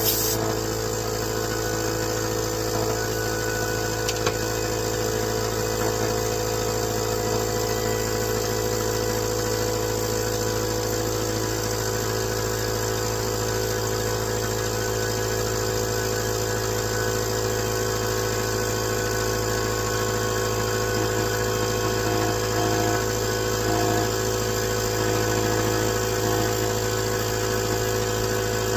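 Small gasoline engine running steadily at a constant idle-like speed, with no change in pitch or level.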